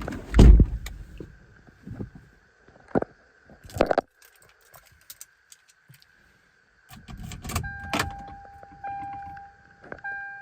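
Handling sounds in and around a pickup truck: heavy thumps in the first second, sharp clicks a few seconds in, then rattling with keys jangling. A steady electronic tone comes on and off near the end.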